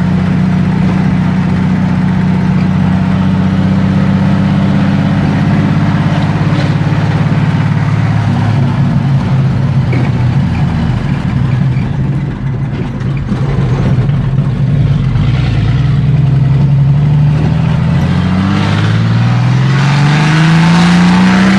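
Chevrolet 400's inline-six engine running through an open, unmuffled exhaust, holding a steady note with a slight dip in pitch midway, then revving up with a rising note over the last few seconds. It is running after a month parked, starting to clear its carbon.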